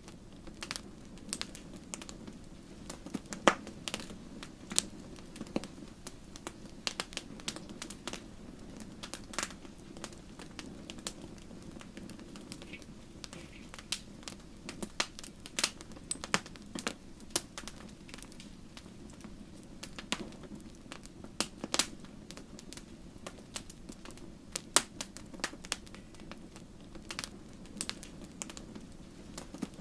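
Wood fire burning in a fireplace: irregular sharp crackles and pops of the logs over a soft steady rush of the flames.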